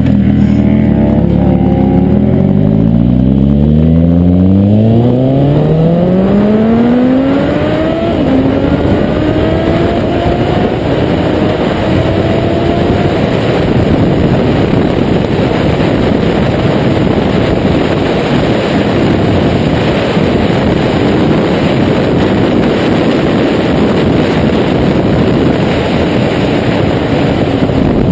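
Kawasaki Z800's inline-four engine, breathing through a Taylor Made Firetong sports exhaust, pulling hard as the bike accelerates, its pitch rising steadily. There is a brief drop in pitch about eight seconds in, like a gear change. After that, wind rushing over the camera microphone largely covers the engine.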